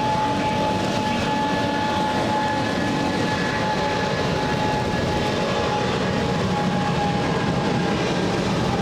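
Boeing 747's four jet engines at takeoff thrust on the takeoff roll down a waterlogged runway: a steady, loud rumble with a steady high whine.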